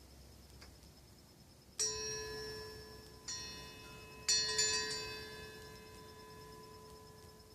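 Wind chime made from old saw blades and other worn-out tools, struck by the wind: three clangs about a second and a half apart, the last a quick cluster of hits, each leaving a long metallic ring that slowly fades.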